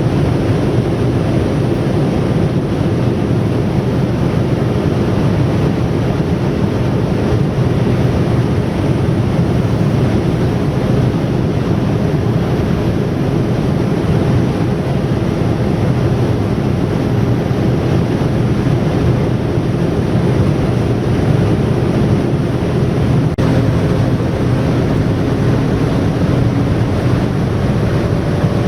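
Steady rushing noise of airflow and engines inside a jet airliner's cabin, even in level and heaviest in the low range. A faint click comes about 23 seconds in.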